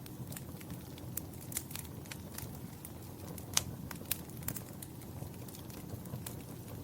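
Wood fire crackling: a steady low rumble of flames with irregular sharp pops and snaps, the loudest about halfway through.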